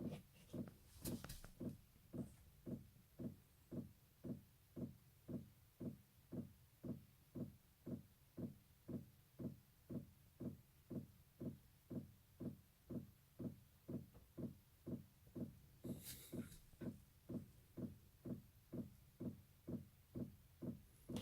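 Diesel heater's fuel pump clicking steadily, about two dull clicks a second, as it primes fuel through to the heater unit.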